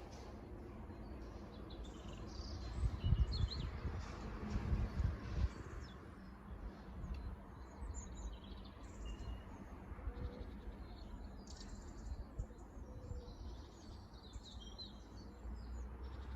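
Small birds chirping and singing in short scattered calls, with wind buffeting the microphone in gusts a few seconds in.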